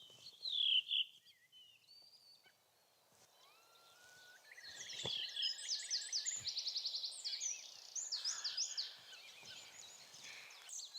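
Several songbirds singing in spring woodland: a short call near the start, a single rising whistle a few seconds in, then dense overlapping song with fast trills and chirps from about four seconds in.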